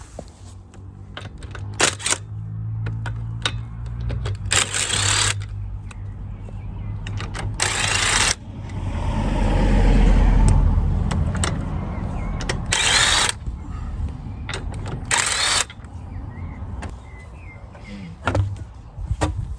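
Impact wrench (wheel gun) hammering in four short bursts, each under a second, undoing the wheel bolts, over a steady low hum. A louder low rumble swells and fades in the middle.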